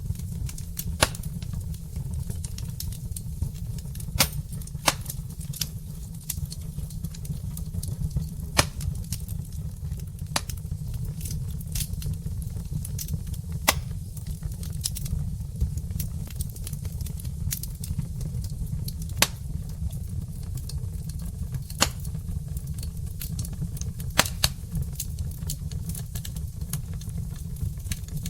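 Wood logs burning in a fireplace, crackling with irregular sharp pops and snaps over a steady low rumble of the flames.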